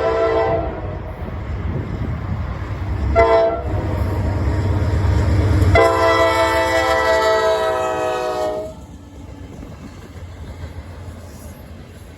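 Norfolk Southern diesel locomotive horn blowing the end of a grade-crossing signal: a long blast that ends just after the start, a short one about three seconds in, and a long one from about six to nearly nine seconds, over the low rumble of the locomotives. After the last blast the sound drops to the quieter rolling of the train.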